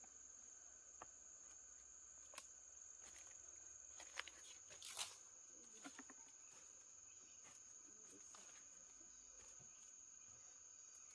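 Insects trilling in one steady high-pitched tone, faint, with scattered soft clicks and rustles and a slightly louder rustle about five seconds in.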